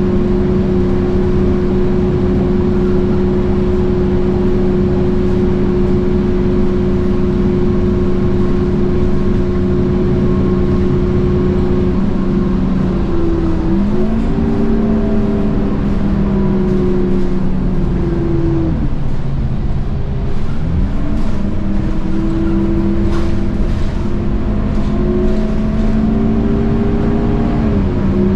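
Scania K230UB bus engine, a DC9 diesel driving through a ZF Ecomat automatic gearbox, running at a steady pitch for about twelve seconds. Its note then dips and climbs again twice, sharply around twenty seconds in after a slow sag, as the gearbox shifts under throttle in what the video calls a kickdown.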